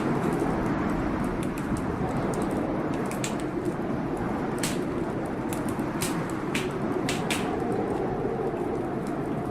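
Wood fire crackling in a fireplace, with sharp pops scattered a second or so apart, over a steady rush of storm wind whose low howl slowly rises and falls.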